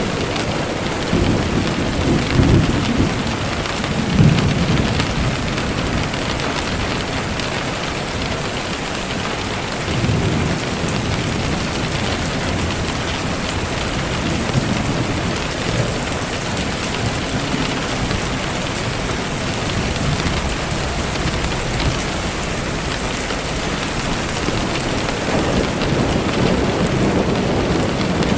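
Steady rain falling, a constant hiss, with low rumbles swelling in several times, strongest in the first few seconds and again near the end.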